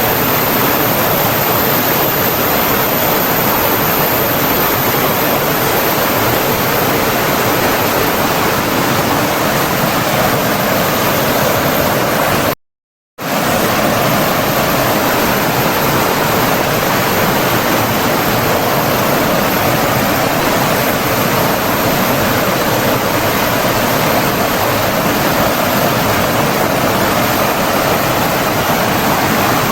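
Flowing water of a stream or waterfall, a steady, even rush. It cuts out to dead silence for about half a second a little before halfway, then resumes unchanged.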